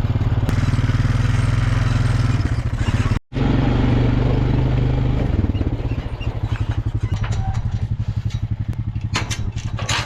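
Vehicle engine running steadily with an even, pulsing drone, dropping to a lower, quieter run about five and a half seconds in. The sound cuts out for a moment a little after three seconds, and a few sharp clicks come near the end.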